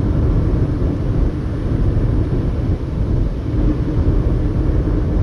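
Steady road noise of a car at highway speed: a continuous low rumble of tyres on pavement and the engine.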